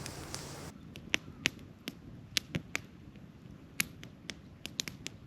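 Wood campfire crackling: scattered sharp pops and snaps at irregular intervals. A steady hiss under the pops cuts off suddenly under a second in.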